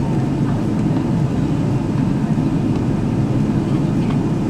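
Steady low rumble inside an airliner cabin while it taxis after landing: engine and air-conditioning noise with no change in level.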